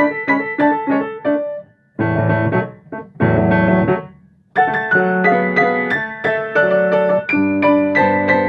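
Piano played four hands as a duet: a run of quick, short repeated notes, then after a brief break about two seconds in, two held chords with deep bass, a short pause, and the playing resumes with a melody over sustained low notes.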